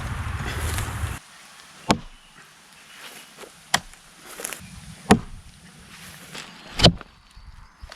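Tomahawk strikes: four sharp chopping hits spaced one to two seconds apart, the last the loudest. A low rumble cuts off about a second in.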